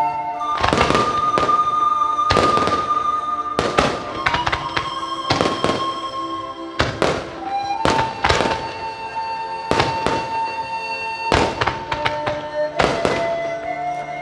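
Display fireworks shells bursting one after another, about one every second, over music with long held notes.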